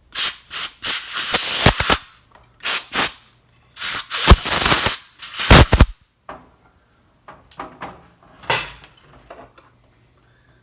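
Pressurised spray hissing in a series of short blasts, two of them lasting about a second, followed by fainter, shorter puffs in the last few seconds.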